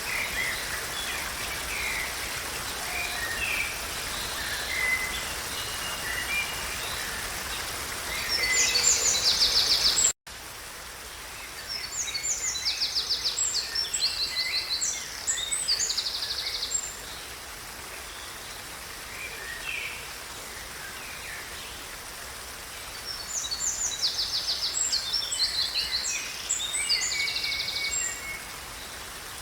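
Songbirds singing: bouts of high, rapidly trilled phrases with scattered chirps, over a steady background hiss. About ten seconds in the sound drops out for an instant and the background comes back quieter.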